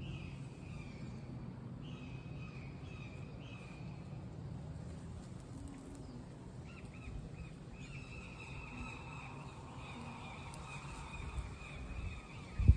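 Birds calling repeatedly in high chirping phrases, with a low rumble of wind on the microphone at the start and a single sharp thump at the very end.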